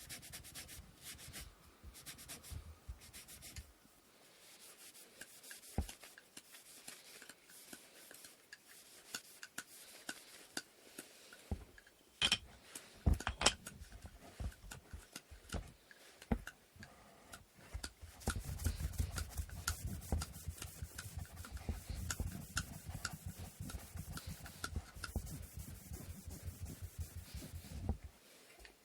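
Sandpaper rubbing on wooden inkle loom parts by hand: quick back-and-forth strokes. A few sharper clicks come about twelve seconds in, and the strokes grow heavier and fuller about two-thirds of the way through.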